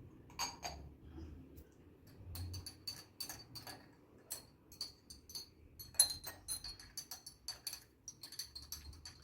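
A run of irregular light clicks and taps of small hard objects, a few a second, the sharpest about six seconds in.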